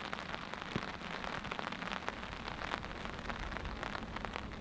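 Steady rain falling, many individual drops hitting a surface close by.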